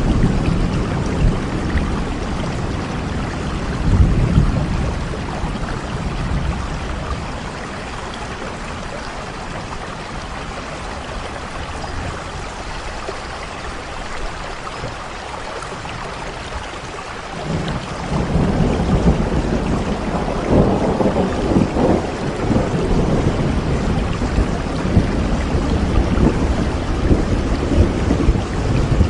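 Steady rain with rolling thunder: a rumble swells about four seconds in and fades, then a longer, louder rumble rises a little past halfway and keeps going.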